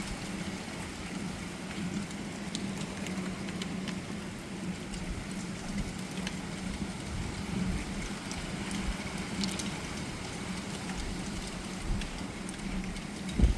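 Rain falling steadily during a thunderstorm, with scattered close drops ticking and irregular low swells of gusting wind, over a steady low hum. A short low thump comes just before the end.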